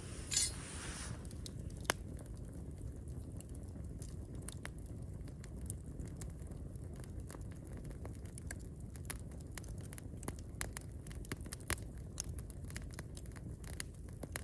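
Wood campfire crackling: irregular sharp pops and snaps over a steady low rumble, with a brief louder rush of noise about half a second in.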